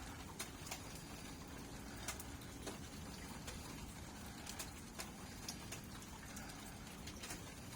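Steady rainfall, with single drops landing as scattered sharp taps at irregular intervals.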